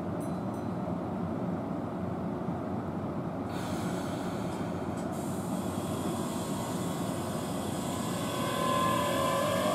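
Keihan electric commuter train pulling slowly out of the station: a steady rumble of wheels on the rails, getting louder near the end. Over the last second or two a whine from the traction motors rises in pitch as the train speeds up.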